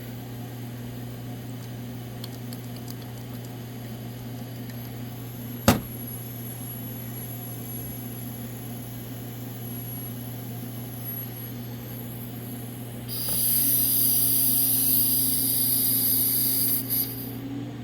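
Vacuum tester running on a 200-4R transmission pump's pressure regulator valve bore: a steady hum with one sharp click a little under halfway, then a loud air hiss for about four seconds, ending sharply, as air is drawn past the valve and bore while the vacuum is pulled up to about 25 inches.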